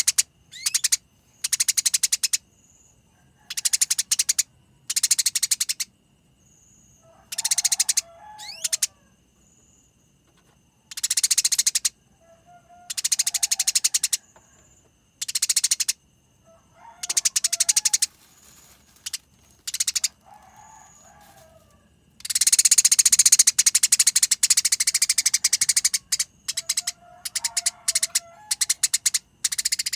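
Gereja tarung songbird singing in fast, harsh, rolling trills, each about a second long, repeated with short pauses. Near the end, one longer and louder trill runs for about four seconds.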